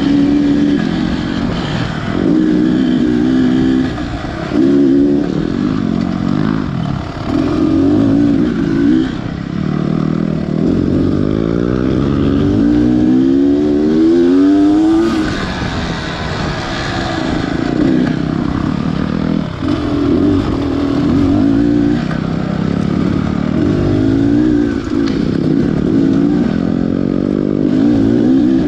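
Beta Xtrainer 300's two-stroke dirt bike engine being ridden hard, revving up and backing off again and again, its pitch climbing in long sweeps and dropping between them.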